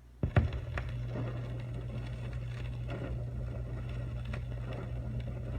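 Turntable stylus set down on a 45 RPM vinyl single running at 33 RPM, with a thump about a quarter second in, then the lead-in groove playing: surface crackle and scattered clicks over a steady low hum.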